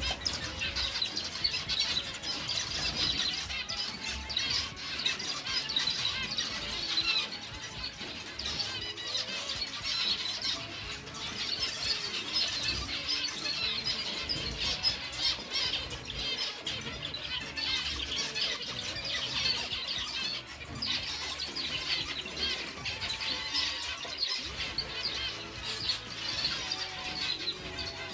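A flock of small cage birds chirping and twittering continuously, many calls overlapping, with music playing underneath.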